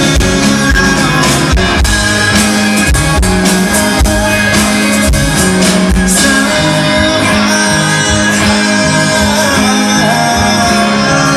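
Live rock band playing at full volume: electric guitars, bass and drums keeping a steady beat, with a lead vocal singing over them.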